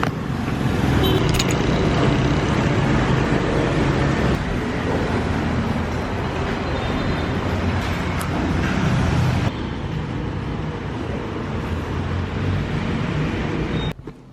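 Road traffic noise: a steady, loud wash of passing vehicles. It changes abruptly about nine and a half seconds in.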